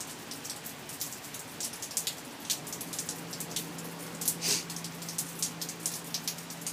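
Rain falling, with many individual drops ticking close by against a steady patter. A faint steady hum comes in about two and a half seconds in.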